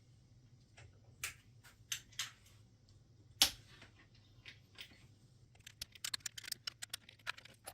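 Scattered light clicks and taps, with a quick run of them near the end.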